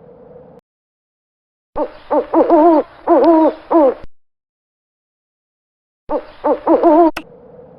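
An owl hooting: a quick run of short hoots, then after a pause of about two seconds a second, shorter run.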